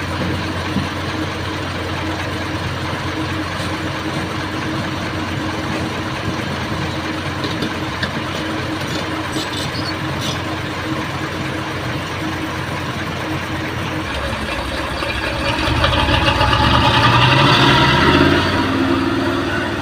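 An old excavator's diesel engine runs steadily. Near the end it grows louder and fuller for a few seconds, then eases back.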